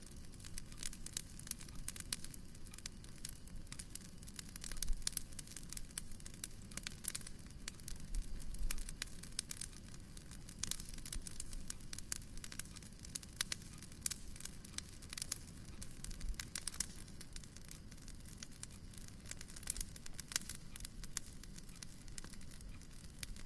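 Wood fire crackling in a fireplace: a dense, irregular run of small snaps and pops over a steady low rumble.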